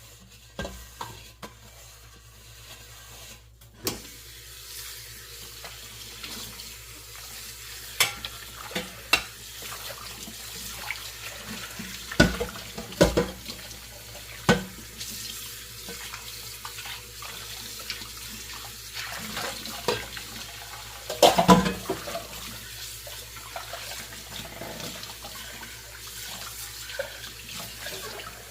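Kitchen tap running steadily into a sink from about four seconds in while dishes are washed by hand, with scattered clinks and knocks of dishes and pans. The loudest cluster of knocks comes about three-quarters of the way through.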